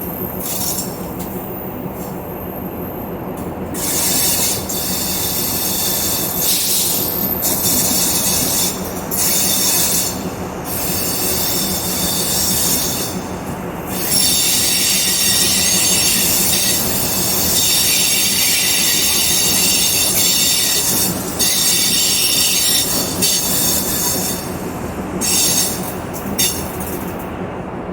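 Diesel-electric multiple unit (DEMU) train running, with a steady low rumble and hum and high-pitched wheel squeal that comes and goes in stretches, longest and loudest around the middle, typical of wheel flanges grinding on a curve.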